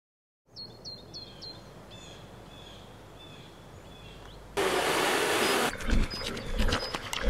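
Small birds chirping outdoors: quick high chirps in a short run, then a few repeated two-note calls. About four and a half seconds in, a much louder hiss of outdoor noise cuts in suddenly, with scattered clicks and low thumps.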